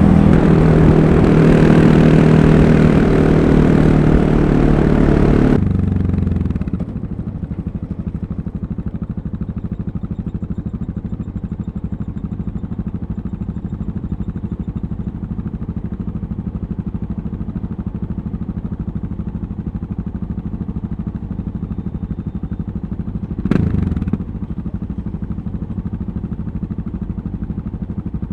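Yamaha MT-03 660 single-cylinder motorcycle engine running loud under throttle. About five and a half seconds in it drops off to a steady, even idle, with one brief louder burst a little before the end.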